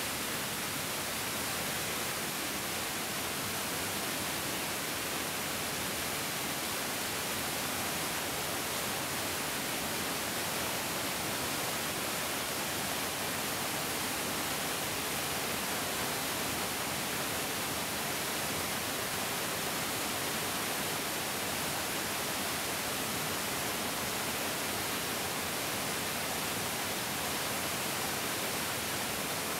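A mountain stream rushing steadily over rocks, an even, unbroken hiss of flowing water with no other sounds.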